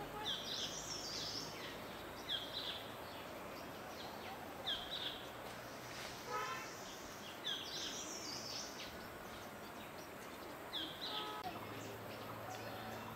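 Wild birds calling: a short, high call repeated five times, about every two to three seconds, with a quick run of notes just past the middle, over a steady background hiss.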